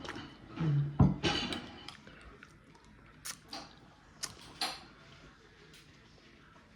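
A sharp clink or knock about a second in, then a few scattered light clicks and taps from handling things at a table.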